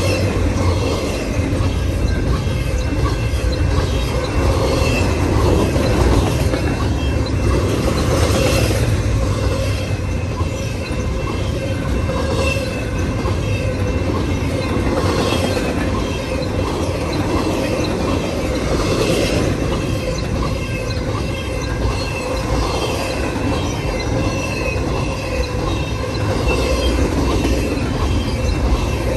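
Intermodal freight cars of a long CN train rolling past: a steady heavy rumble of steel wheels on rail with repeated clicks over the joints and a thin ringing squeal from the wheels.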